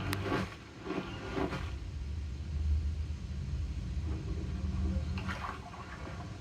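A steady low rumble with rushing, water-like noise that swells and fades, and a sharp click right at the start.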